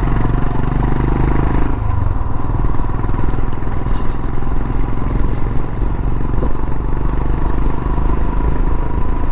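Royal Enfield Himalayan's single-cylinder engine running while riding on the road, heard steady and loud. The engine note drops a little under two seconds in.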